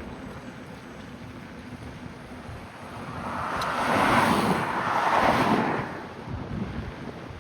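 A car passing by. A rush of tyre and engine noise swells about three seconds in, peaks twice around four and five seconds, and fades away by six, over a steady background rush.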